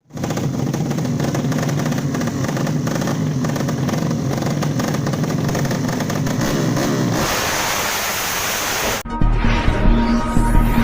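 A 155cc drag-racing motorcycle engine running for about seven seconds, its pitch sweeping up briefly near the end of that stretch. A rushing noise follows for about two seconds, and then background music starts.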